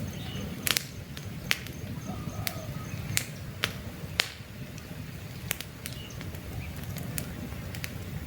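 Wood campfire burning, with irregular sharp crackles and pops over a low steady rush of flame. Faint bird chirps come through now and then.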